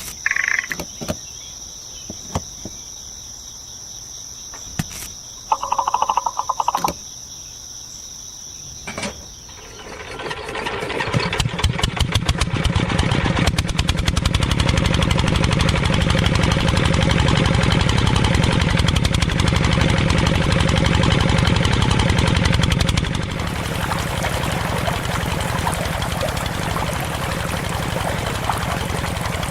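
A small engine on a homemade model tractor starts up about ten seconds in and runs with a rapid, even pulsing, dropping slightly in level a little past twenty seconds. Before it starts, a steady high insect chirring with a few clicks.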